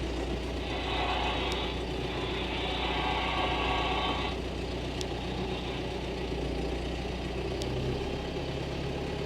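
Farm tractor engine running steadily at low revs. A band of hiss rises over it from about one to four seconds in, and there are a few faint clicks.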